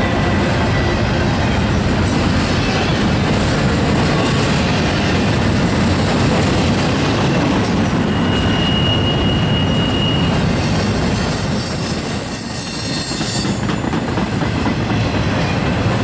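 Norfolk Southern intermodal train's double-stack container well cars rolling past: a steady loud rumble of steel wheels on rail. A thin squeal comes in about eight seconds in, and a higher squeal follows from about ten to thirteen seconds.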